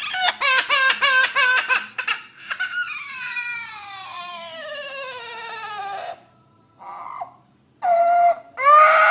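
Myna bird (burung beo) mimicking a human baby crying: a quick run of short sobbing notes, then one long wail falling in pitch, then shorter cries near the end.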